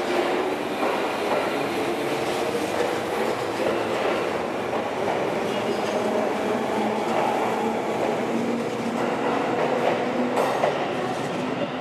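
JR 205 series (600 subseries) electric train pulling out of the platform and accelerating past, its cars rolling by with a steady rumble of wheels on rail and a motor hum that creeps up in pitch as it gathers speed.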